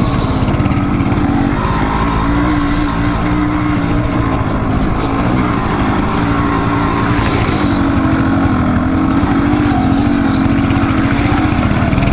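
Dual-sport motorcycle engine running while riding a rough trail, its pitch rising and falling repeatedly with the throttle.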